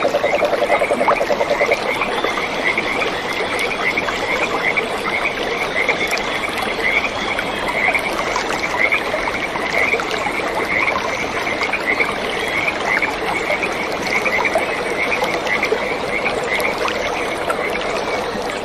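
A chorus of frogs calling, with short high chirps repeating over and over throughout against a steady background hiss. A lower, fast-pulsing trill is heard in the first two seconds.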